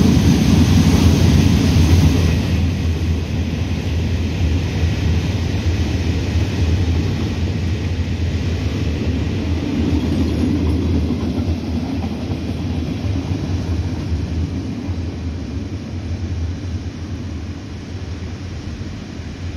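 Freight train of open gondola wagons rolling past, a steady low rumble of wheels on rail that slowly fades as the train draws away.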